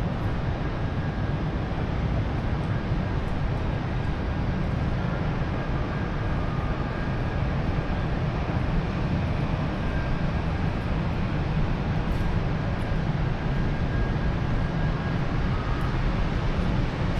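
Steady city street ambience in the rain: a continuous low rumble of traffic under an even hiss.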